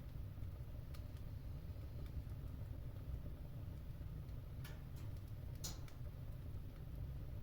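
Fire burning in a fireplace: a steady low rumble with a few sharp crackles and pops, the loudest one just before six seconds in.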